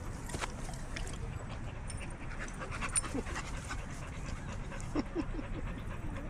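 A dog panting, with a few brief squeaks and clicks around it.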